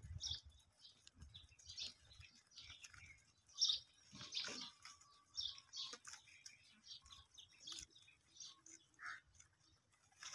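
Small birds chirping in short, irregular calls, with one louder call about four seconds in.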